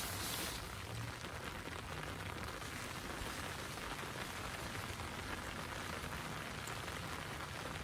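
Rain falling steadily, an even hiss of many drops that is a little louder for the first half second.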